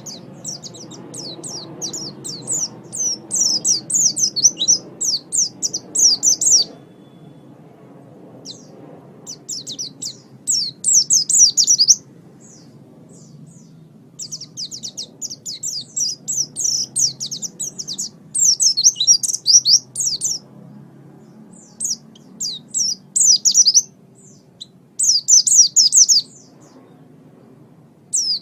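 White-eye (pleci) singing fast, high-pitched twittering phrases of quick downward-sweeping notes, several seconds each, broken by short pauses.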